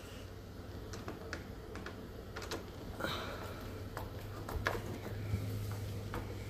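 Scattered small clicks and scrapes of a screw being fitted and driven by hand into a dishwasher door's fiberboard panel, over a low steady hum.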